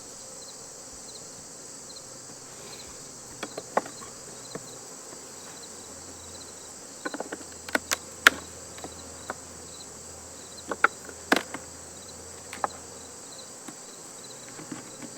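Steady high-pitched insect chirring over a faint low hum, broken by scattered sharp clicks and knocks of wooden hive frames and a hive tool. The loudest knocks come about eight and eleven seconds in, as a frame is worked into a hive box gummed up with propolis.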